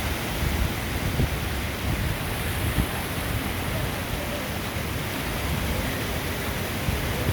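Steady rushing of rain floodwater, an even hiss, with a gusty low rumble of wind on the microphone underneath.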